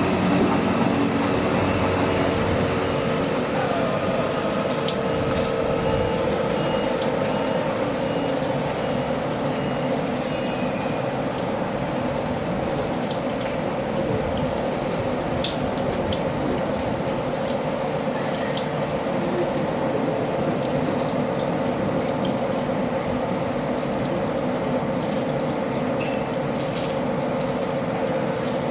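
Heavy rain falling steadily, with a continuous electric hum from a standing electric train alongside.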